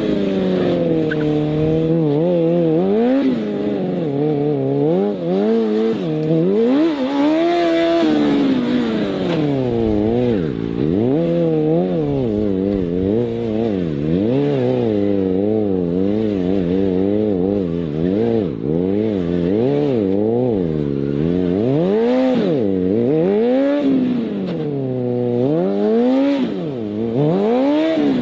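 Superbike engine revving, its pitch climbing and falling again and again as the throttle is opened and closed.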